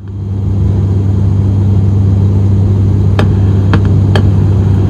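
Propeller drone of an ATR 72-600 turboprop heard in the cabin in flight: a loud, steady low hum with a deep tone and a rumble beneath it, with a few faint clicks past the middle.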